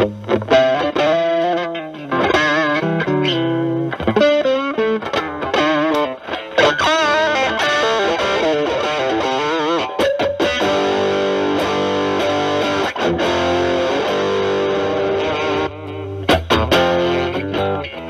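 Stratocaster with single-coil alnico pickups through a Proco RAT2 distortion stacked with an Ibanez TS9 Tube Screamer, into a Marshall Valvestate amp, playing a distorted bluesy lead. It opens with string bends and vibrato, then lets a chord ring out for several seconds, with a few short chord stabs near the end.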